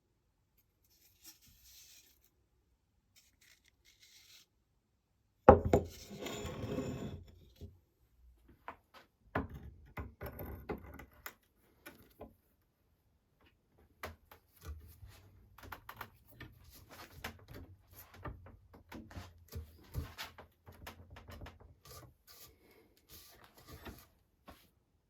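Hand work on an old wooden-handled hatchet: a sharp knock about five seconds in, then bursts of scraping and rubbing of wood, and later a long run of small clicks and scrapes.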